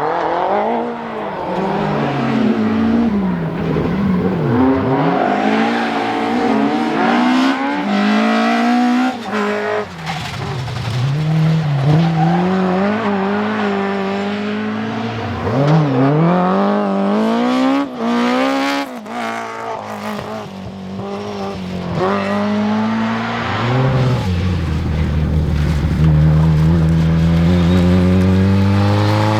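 Rally car engines revving hard at full throttle. The pitch climbs through each gear and falls away sharply at shifts and lifts, many times over. Near the end one engine climbs steadily in pitch.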